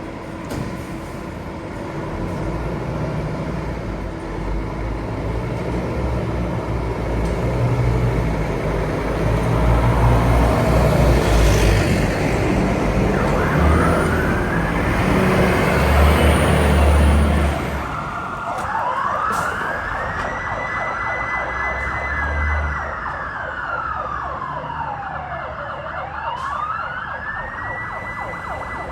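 Fire truck turning out under siren: heavy truck rumble fills the first half, loudest just before the middle. Then the siren wails in slow rising and falling sweeps that climb, hold high, drop low and climb again.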